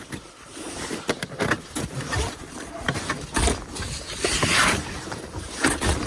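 Hand pulls on the recoil starter of a 1987 Yamaha Inviter snowmobile's 300cc single-cylinder engine during a cold start: uneven rasping pulls and knocks, with the engine not yet running steadily. The engine has very high compression for its size, which makes the pull hard.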